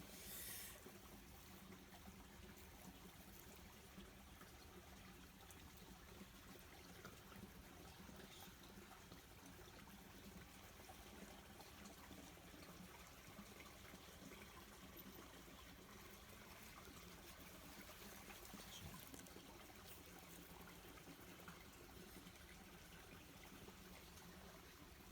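Near silence: a faint, steady, even hiss of background noise.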